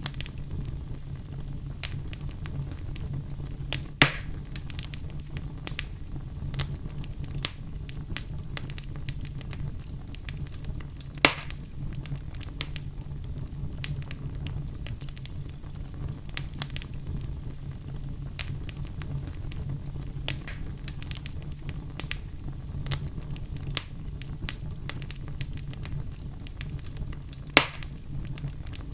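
Wood fire burning in a fireplace: a steady low rumble of flame with frequent small crackles and three louder pops, at about four seconds, eleven seconds and near the end.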